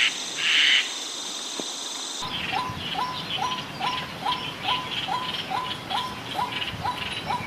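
Wild animal sounds: for about two seconds, a steady high insect-like buzz with a loud chirp at the start. Then an abrupt cut to a rapid, even series of short repeated calls, about two or three a second, over lighter, higher chirping.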